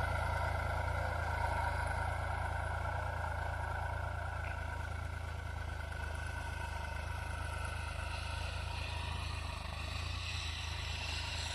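New Holland 3600-2 tractor's diesel engine running steadily under load while pulling a reversible plough through the field.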